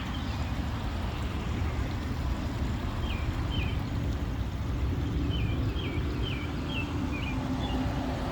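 A small bird chirping short, quick notes over a steady low rumble of outdoor background noise: two chirps about three seconds in, then a run of about six.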